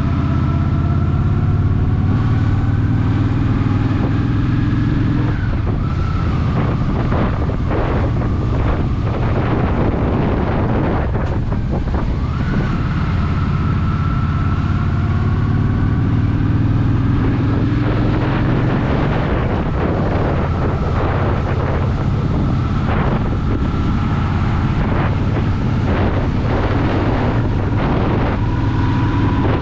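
Honda Shadow VT750 V-twin motorcycle engine running on the road, its pitch rising and dropping several times, with wind buffeting the microphone.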